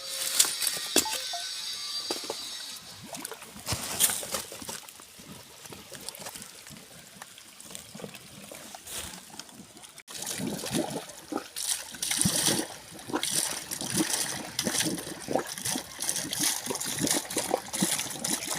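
Water trickling and splashing, with scattered clicks and knocks; the splashing is louder and denser in the second half.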